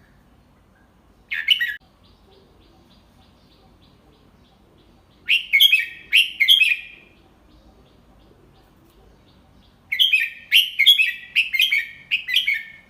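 Red-whiskered bulbul singing. A brief phrase is followed by two longer phrases of quick, bright chirping notes, with pauses of a few seconds between them. It is a tutor bird's song of the kind keepers play for young bulbuls to copy.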